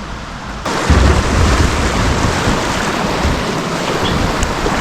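Loud, steady rushing noise of moving river water around a kayak, with low buffeting rumbles on the microphone. It cuts in suddenly about half a second in.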